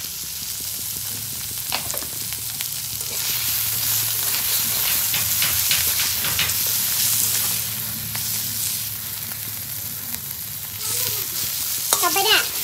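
Food sizzling in hot oil in a pan while being stirred, with short scraping clicks from the stirring utensil; the sizzle swells for a few seconds in the middle. A brief wavering pitched sound comes near the end.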